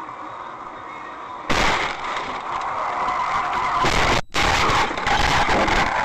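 Low steady road noise from a car, then about a second and a half in a sudden loud rush of vehicle noise that keeps on, broken by a short drop-out about two-thirds of the way through.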